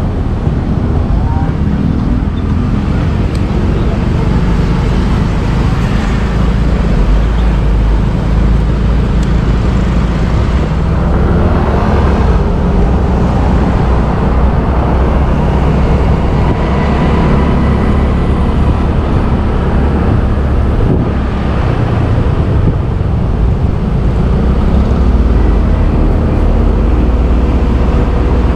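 Motorbike engine running steadily while riding through city street traffic, with other vehicles passing around it.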